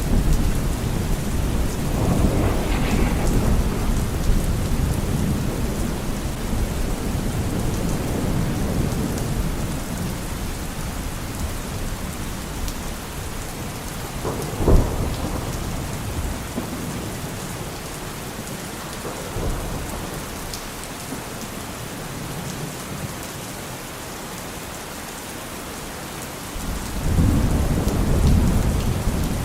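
Steady rain with rolling thunder. The rumbles fade over the first few seconds, a sharp thunder crack comes about halfway, and another low rumble swells near the end.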